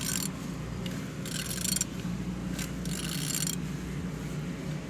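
A used car engine being turned over by hand: four short bursts of mechanical ratcheting and rubbing as the crank is worked round, over a steady low hum. The engine turns freely, not seized.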